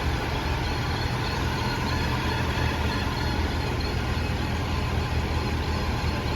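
Steady running noise from a 2018 Audi A5 Quattro's drivetrain, heaviest in the low end, without a break. The car has a whine around 45 mph that is blamed on the driveshaft's center support bearing.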